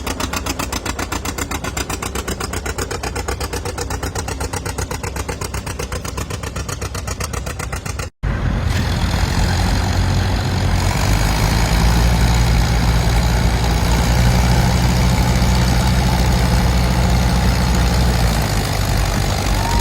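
Antique farm tractor engine running, its separate firing beats clearly heard as a rapid, even chuff. After a brief break about eight seconds in, a tractor engine runs louder and deeper for the rest of the stretch.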